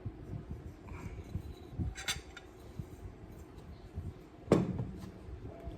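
Eating noises at a meal: light clinks of a plate and cutlery amid low handling noise, with a sharp click about two seconds in and a louder knock on the dish about four and a half seconds in.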